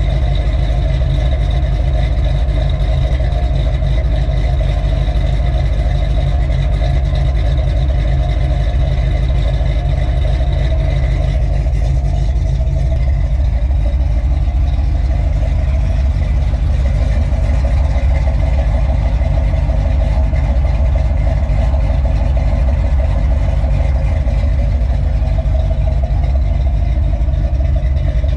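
Ford 351 Windsor V8 with a Ford Performance X303 camshaft in a 1983 Mustang, idling steadily, heard from the exhaust end.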